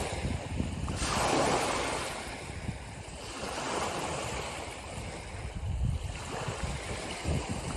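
Ocean surf washing in and drawing back, a steady hiss with a low rumble. One wave surges about a second in and fades over the next two seconds, followed by weaker swells.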